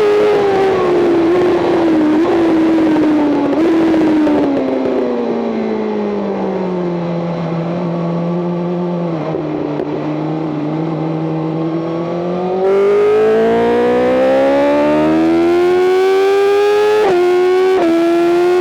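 BMW M 1000 RR's inline-four engine braking into a slow corner: revs fall for several seconds with short blips on the downshifts, then hold low. About 13 s in the throttle opens and the revs climb, with two quick upshifts near the end.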